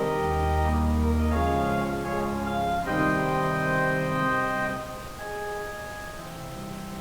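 Organ music: sustained chords that change about every second and a half, with a deep pedal bass note at the start, then easing to a quieter held chord about five seconds in.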